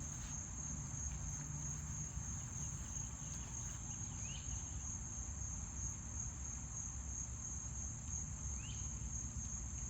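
Steady, unbroken high-pitched chorus of crickets, over a low rumble, with two faint short rising chirps about four and eight and a half seconds in.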